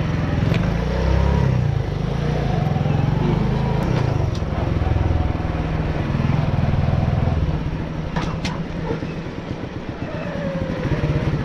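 Small motorbike engine running as the bike is ridden along, a steady pulsing engine note. About two-thirds of the way through, the engine eases off for a couple of seconds, then picks up again near the end.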